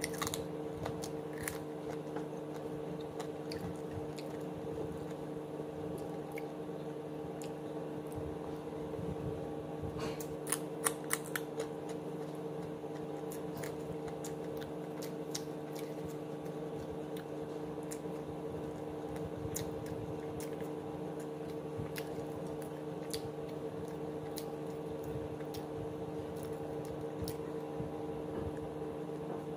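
Close-up eating sounds: chewing and biting on chicken and rice eaten by hand, with small crunches and mouth clicks that come thickest about ten seconds in, over a steady low hum.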